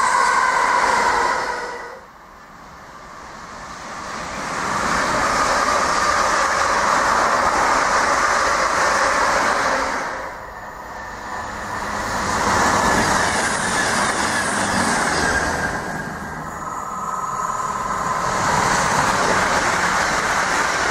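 London Midland Class 350 electric multiple units passing through at speed: a loud rush of wheels on rail and air, swelling and fading. It drops away briefly about 2, 10 and 16 seconds in before the next pass builds up again.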